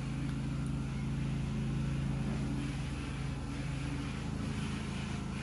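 A motor or engine running steadily with an even low hum.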